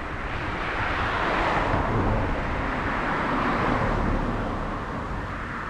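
A vehicle passing on the road: a rushing noise that swells over the first couple of seconds and fades toward the end.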